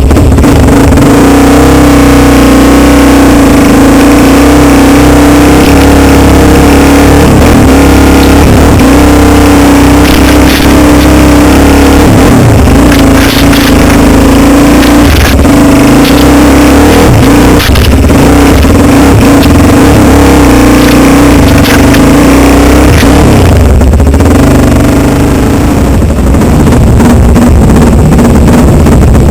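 Dirt bike engine running hard under way, loud and close, holding a fairly steady pitch with a brief easing off of the throttle a little before the end.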